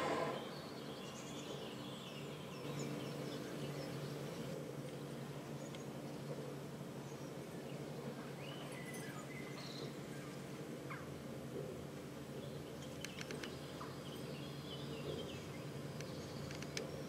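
Birds chirping and singing here and there over a steady low hum, with a brief rush of noise at the very start.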